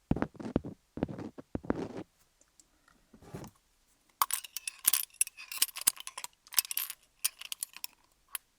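Wooden picks scratching and tapping over a rhinestone-studded dummy head. A few softer, duller strokes come in the first two seconds, then from about four seconds in a quick run of bright clicks and clinks as the picks rattle across the stones.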